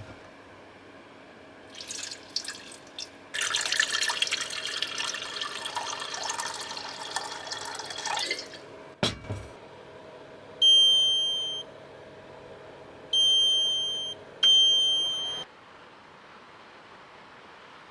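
Liquid pouring or running steadily for about five seconds, then a single knock, then three electronic beeps, each a clear tone that fades away.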